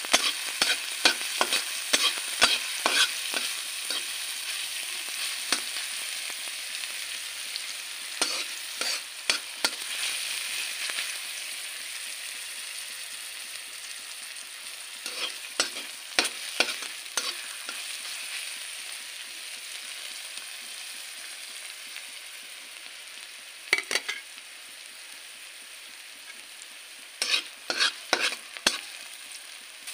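Chopped onion and green chilli sizzling in hot oil in a kadai, the sizzle slowly dying down as the onion browns. A spatula scrapes and taps against the pan in short spells of stirring.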